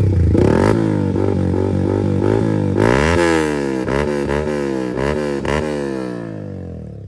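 Yamaha R15 V4M's 155 cc single-cylinder engine revved through an aftermarket Akrapovic exhaust, freshly cold-started: a string of quick throttle blips, each rising and falling in pitch, with a longer rev about three seconds in, then dropping back toward idle near the end. Very loud.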